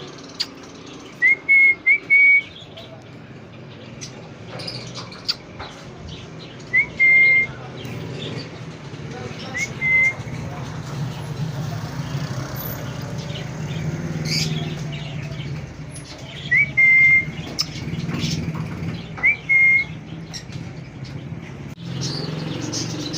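A bird's whistled call: a short upward slide into a clear held note, given about six times at uneven intervals over a steady low background hum.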